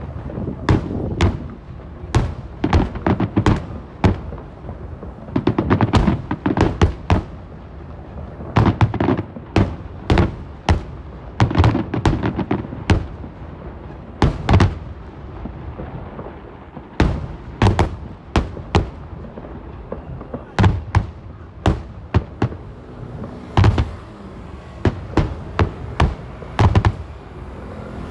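Fireworks display: aerial shells bursting in a dense, irregular barrage, often several bangs a second, over a continuous low rumble.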